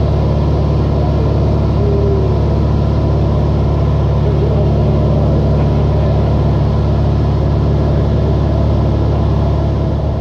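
Light airplane's engine and propeller running steadily: a constant, even drone.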